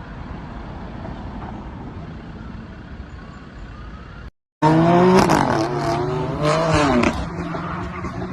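Steady car road and engine noise from a dashcam. After a brief cut, a much louder passage begins: a steady held tone under high, wavering pitched sounds.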